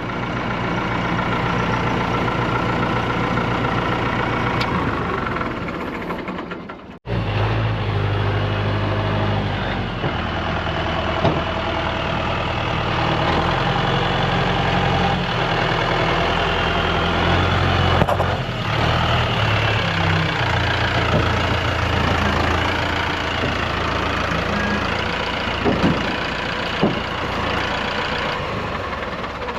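Engine of a vehicle or machine running steadily, cutting out abruptly for a moment about seven seconds in and then running on.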